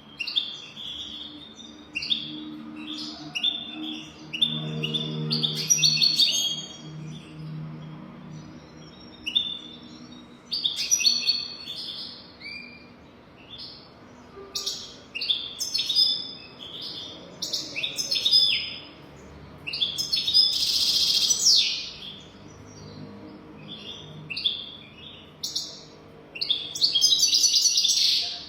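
European goldfinch singing: quick twittering phrases of high chirps and trills, coming in bursts with short pauses between them. The longest, densest bursts come about two-thirds of the way in and again near the end.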